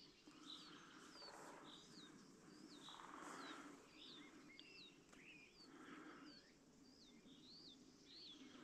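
Faint small bird giving short, high chirps about twice a second, over soft outdoor background noise.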